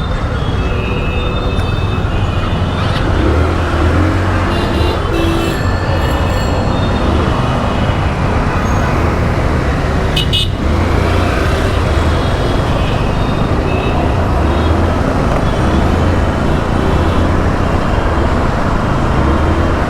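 Steady rush of road traffic and wind noise heard while riding a scooter through city traffic, with a few short horn toots now and then.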